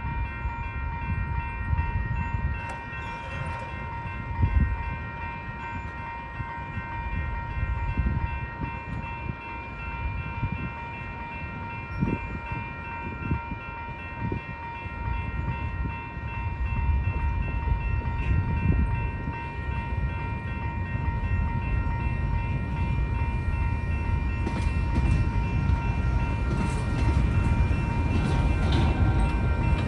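Railroad crossing bell ringing steadily while a slow-moving train rolls past with a low rumble and a few wheel and coupler knocks, the rumble growing louder in the second half.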